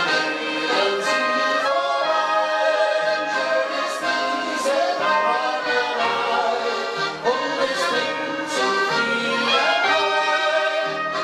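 Live band music: an instrumental passage of a folk-pop song, with a melody line over full accompaniment and no words sung.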